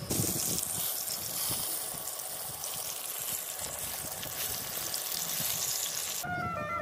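Long-bean and chana dal fritters sizzling as they shallow-fry in hot oil in a kadai. The sizzling cuts off suddenly near the end and music comes in.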